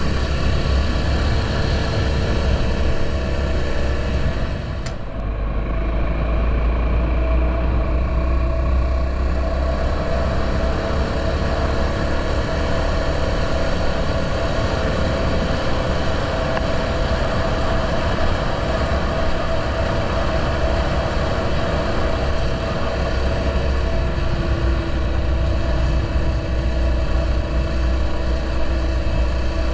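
Honda XR650L's air-cooled single-cylinder engine running steadily while the motorcycle is ridden, with wind buffeting the microphone. The engine eases off briefly about five seconds in, then picks back up.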